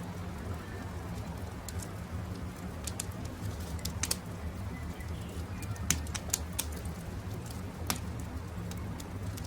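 Wood campfire crackling, with sharp irregular pops over a steady low rumble of the flames. Faint bird calls in the background.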